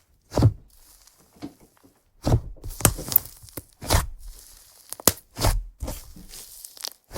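Slime being squeezed and poked by hand, giving a run of about eight sticky pops and crackles at uneven intervals.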